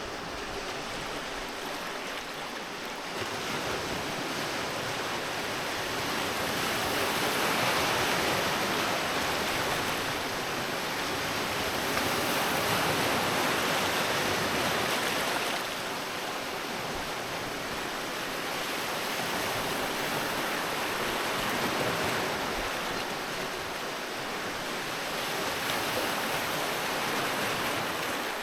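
Sea waves breaking and washing on a beach, a steady hiss of surf that swells and eases in slow surges several seconds long.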